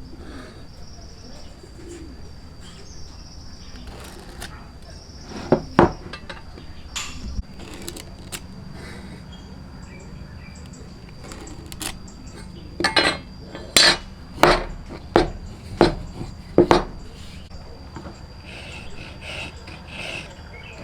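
Sharp knocks and clinks of hand woodworking tools on wood: two close strikes about a quarter of the way in, then a run of six evenly spaced strikes a little past the middle, over a faint steady high tone.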